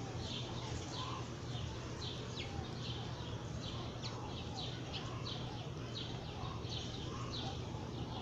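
Small birds chirping over and over, about two short chirps a second, with a few lower calls among them, over a steady low hum.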